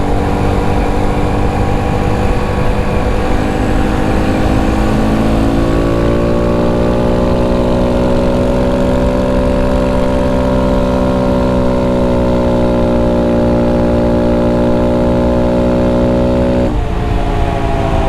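Honda Monkey 125's single-cylinder four-stroke engine running under way. Its note climbs slowly, steps up sharply about five seconds in and holds, then drops suddenly near the end.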